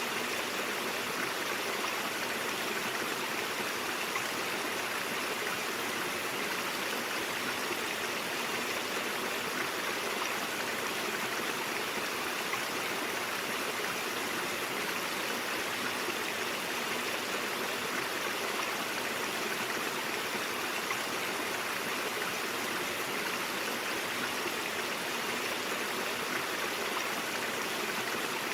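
Stream water flowing and burbling steadily over rocks, an even rush of running water.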